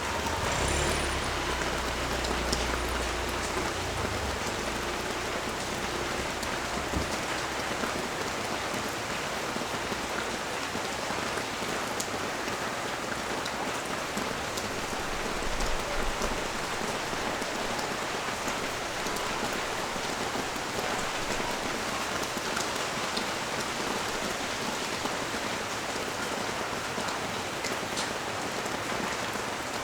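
Steady rain falling on street and balcony surfaces, with the odd sharper drip ticking through it. A low rumble lies under the rain for the first few seconds and then fades.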